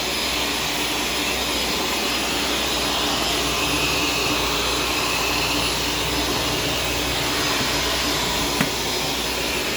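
Shark Stratos upright vacuum cleaner running steadily with an even motor whine and airflow noise, with a single brief click near the end.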